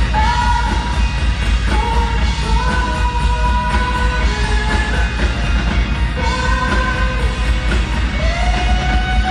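Live rock band playing in a concert hall, a singer holding long notes that slide from one pitch to the next over strong, steady bass.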